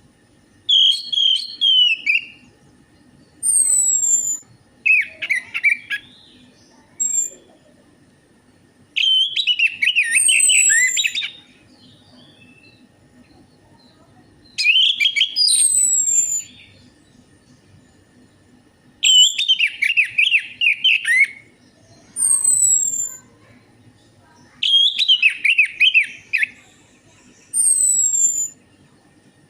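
Orange-headed thrush singing: short phrases of rich, rapidly varied warbling whistles, each one to two seconds long and coming every few seconds, with thin high falling whistles in between.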